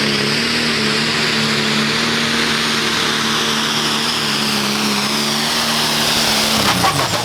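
Turbocharged diesel pulling tractor running flat out at a steady, high pitch with a loud hiss of exhaust and turbo noise. Near the end the engine drops off throttle and its pitch falls, typical of the end of a pull.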